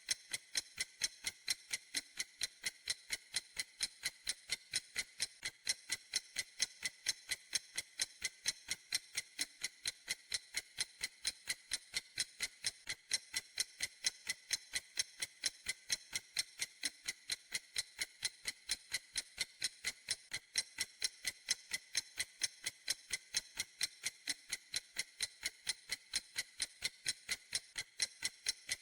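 Clock ticking steadily: sharp, even ticks several times a second, bright and crisp, with no change in pace.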